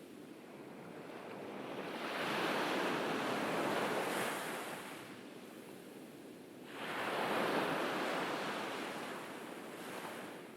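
Ocean waves breaking and washing up a beach, two waves swelling into a hiss about two seconds in and again near seven seconds, each fading back between them.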